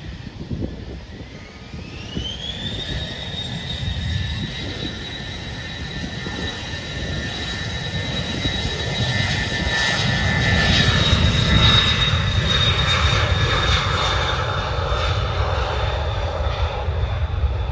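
Jet aircraft engines spooling up: a whine climbs in pitch over about two seconds, then holds as a steady high whine. Under it a low rumble grows louder, peaking about twelve seconds in.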